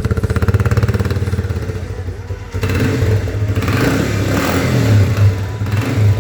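DTM XL motorcycle engine running with a pulsing exhaust note, then revved up about two and a half seconds in and easing back near the end.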